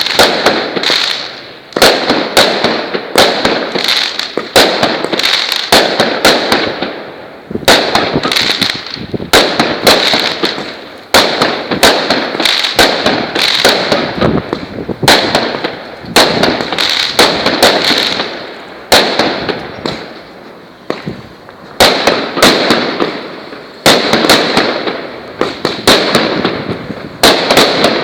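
Kozachok multi-shot firework battery (салют) firing: sharp bangs recurring about every one to two seconds, each followed by a noisy tail lasting about a second.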